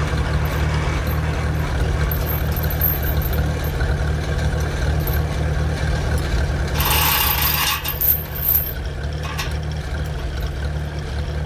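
A vehicle engine running steadily with a low hum. About seven seconds in there is a brief burst of noise lasting a second or so.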